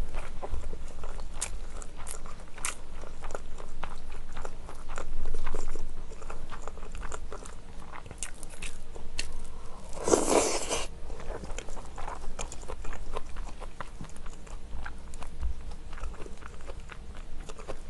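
Close-miked chewing of braised kimchi and tender pork rib meat: many soft, wet mouth clicks, with a brief louder rushing sound about ten seconds in.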